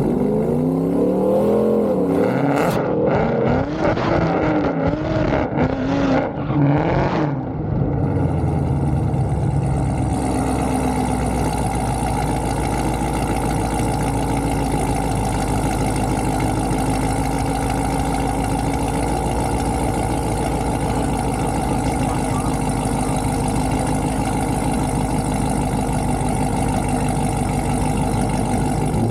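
Car engine revved up and down several times with some clatter for the first several seconds, then running steadily at a constant speed for the rest.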